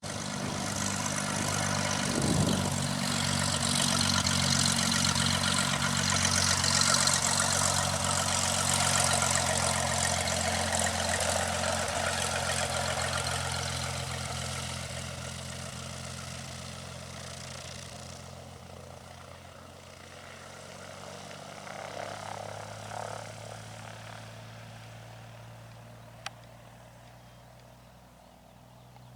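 Cessna 182 Skylane's Continental O-470 six-cylinder engine and propeller running, loud and close for the first dozen seconds, then fading steadily as the aircraft moves away. A single sharp click sounds near the end.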